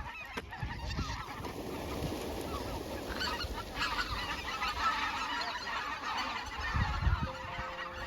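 A flock of birds calling: many short calls overlapping densely throughout, with some low rumbling underneath.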